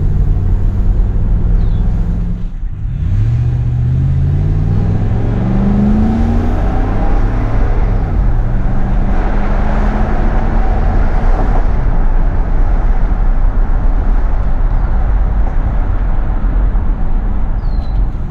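2011 Ram 1500's 5.7-litre HEMI V8 pulling the truck up to speed through its automatic transmission. The engine note climbs, drops at an upshift, then settles to a steadier drone as tyre and wind noise build.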